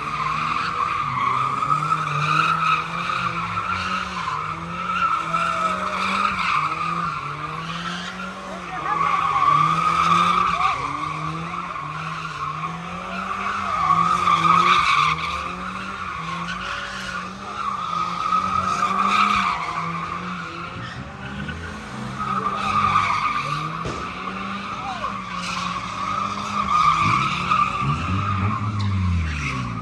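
A car doing donuts: a continuous tyre squeal, with the engine revving up and down as it spins. The noise swells louder every few seconds as the car swings round close.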